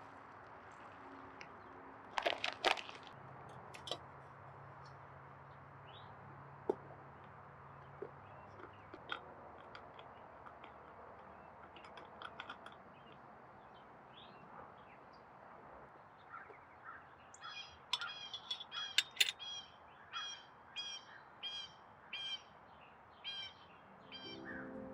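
Birds calling: scattered chirps, then, from about two-thirds in, a run of repeated sharp call notes about two a second. A short cluster of clicks sounds a couple of seconds in.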